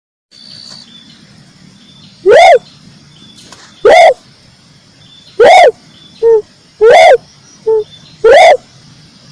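Tekukur merah dove calling: five loud, short calls that rise and fall in pitch, about one every second and a half, with two shorter, softer calls in between.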